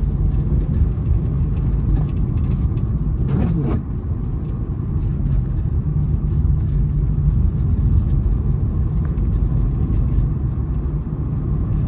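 Honda City car being driven, with a steady low road and engine rumble and faint scattered ticks. A brief sweeping tone passes about three and a half seconds in.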